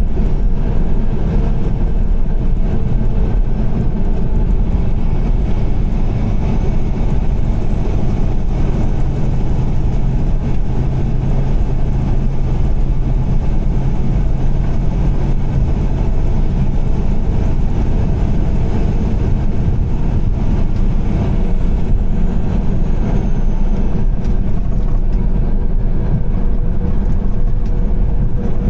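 Steady road noise of a car driving on a wet highway in heavy rain, mostly a low rumble of tyres and engine. A low steady hum joins in from about eight seconds in until about twenty-one seconds in.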